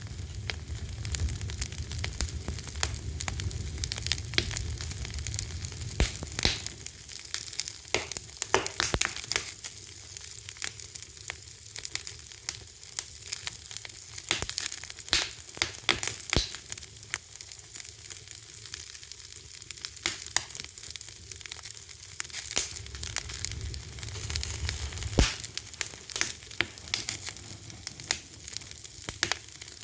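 Fire crackling, with many irregular sharp pops and snaps over a steady hiss. A low rumble swells in the first few seconds and again a little past twenty seconds in.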